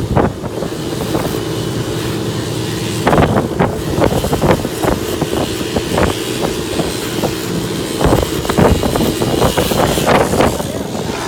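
A motor vehicle's engine running steadily, with repeated knocks and rattles throughout.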